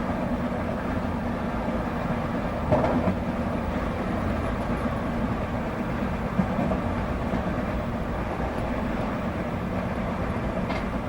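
Merseyrail Class 508 electric multiple unit running on a climb, heard from inside the driver's cab: a steady rumble of wheels on rail with a constant hum. A single brief knock about three seconds in.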